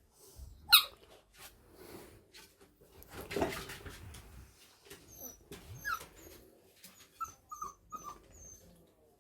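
Five-week-old Staffordshire bull terrier puppies whimpering and giving a run of short high squeaks in the second half, over scattered clicks and scuffling as they chew. A sharp high sound about a second in is the loudest thing.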